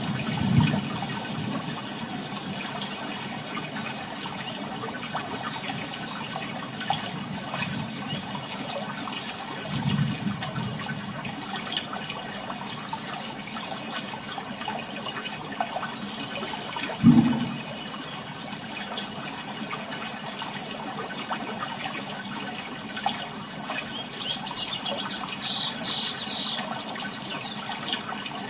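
Sea water washing in over sand at the shoreline: a steady wash with three heavier surges, the loudest about two-thirds of the way through.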